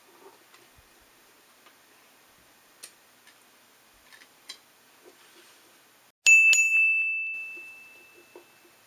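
Faint clicks and taps of small parts being handled, then about six seconds in a sudden bright metallic ding that rings out and fades over about two seconds.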